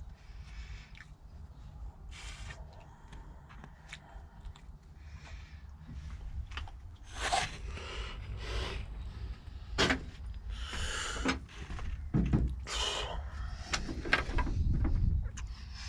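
Irregular knocks, clicks and short scrapes of hands handling parts or tools, over a low steady rumble; they grow busier and louder about halfway through.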